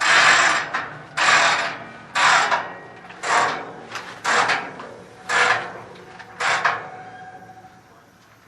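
Freight train rolling slowly, its cars giving a rhythmic clattering rattle about once a second that grows weaker and stops near the end.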